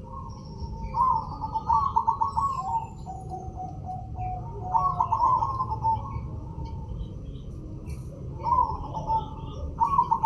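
Zebra dove (perkutut) in full song, giving its rapid trilled coo phrase over and over, about every three to four seconds. Faint high chirps of small birds and a steady low rumble sit beneath it.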